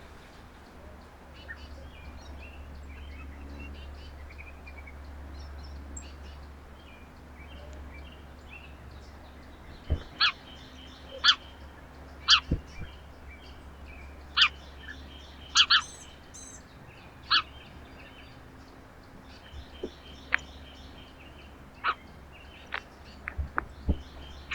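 Small songbirds calling: faint twittering, then from about ten seconds in a run of loud, short, sharp chip notes a second or two apart, over a steady low rumble.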